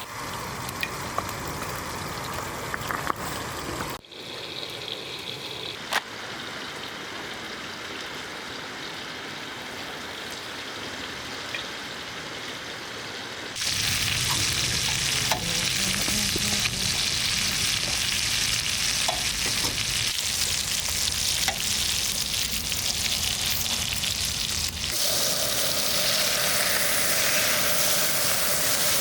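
Food sizzling as it fries in oil in a pan, a steady crackling hiss whose loudness changes abruptly a few times.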